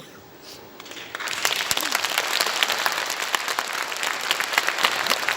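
Audience applause, many people clapping, starting about a second in and carrying on steadily.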